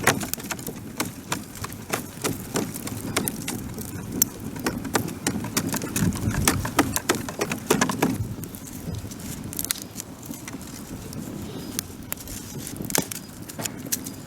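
Wood campfire crackling, with irregular sharp pops and snaps over a low rumble; the pops come thick for the first half and thin out after.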